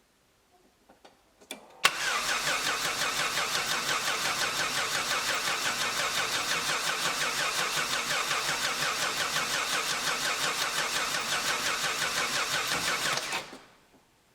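A couple of clicks, then an old Opel/Vauxhall's starter motor cranking the engine for about eleven seconds with a rapid, even pulsing, before stopping abruptly. The starter now turns over after its corroded, overheated main cable connection was cleaned and renewed.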